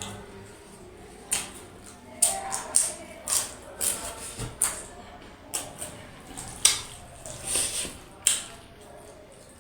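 Close-up eating sounds: a person chewing and smacking their lips, in a run of irregular short wet clicks about every half second.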